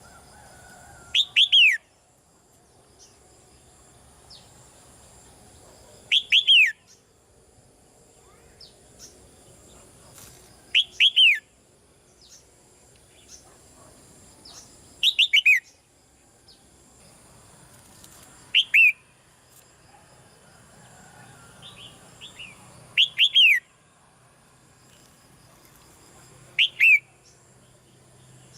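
Red-whiskered bulbul calling: short, loud bursts of two or three quick downward-sweeping notes, repeated about every four to five seconds.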